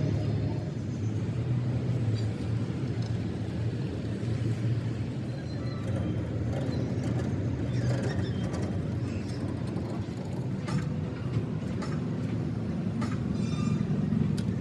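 An engine running steadily with a low hum, with a few light clicks and knocks about halfway through and near the end.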